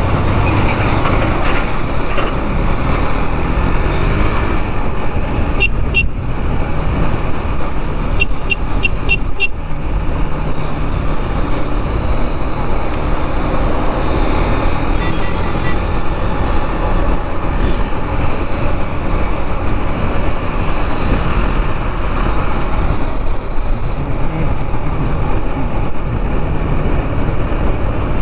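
Wind rush and engine noise from a KTM Duke 390 motorcycle riding through road traffic. A quick series of short high beeps comes twice, about six and nine seconds in.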